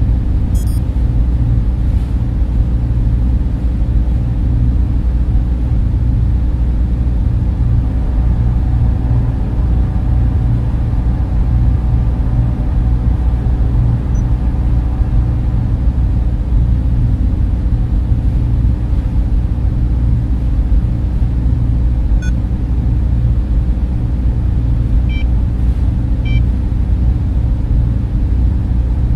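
Server room equipment running: many cooling fans together make a steady, dense low hum with no change in pitch or level.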